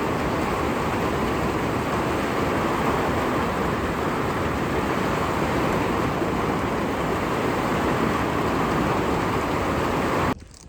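Heavy rain and wind: a steady, loud rushing noise that cuts off abruptly near the end.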